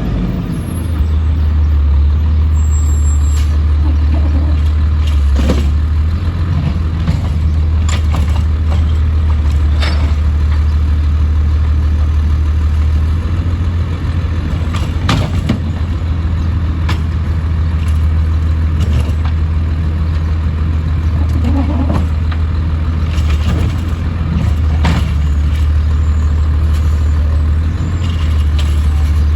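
Autocar side-load garbage truck's engine running steadily with a low drone, with scattered short knocks and clanks over it.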